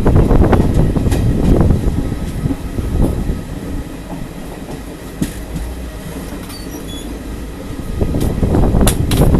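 Passenger train running along the track, heard from an open coach doorway: a steady rumble of wheels on rail, mixed with wind and scattered knocks. It eases off in the middle and grows louder again near the end.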